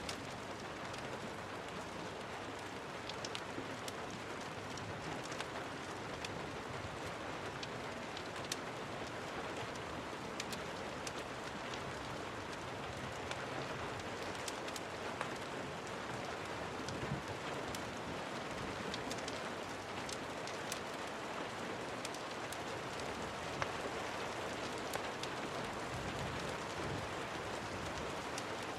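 Steady rain, an even hiss, with many sharp ticks and pops scattered through it.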